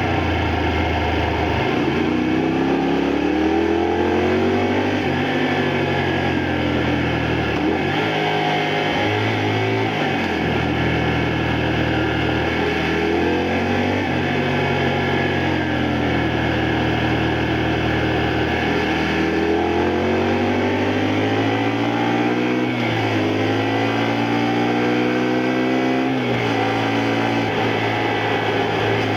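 Honda Varadero 125's small liquid-cooled V-twin engine under way, its pitch climbing under acceleration and dropping back again about five times, as the bike changes up through the gears.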